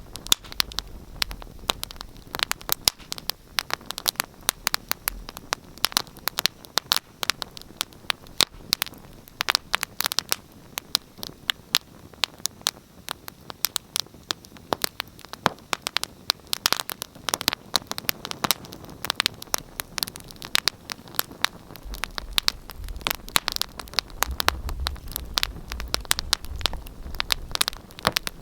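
Wood fire burning in a fireplace, crackling and popping with many sharp irregular snaps over a soft hiss, and a low rumble of the flames near the end.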